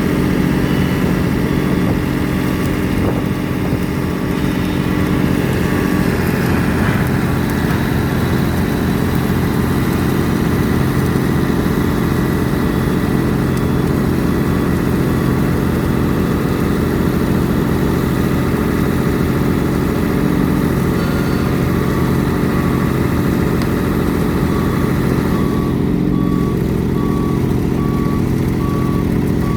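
Large diesel engine of a pile-driving rig running steadily, with a short beep repeating at times.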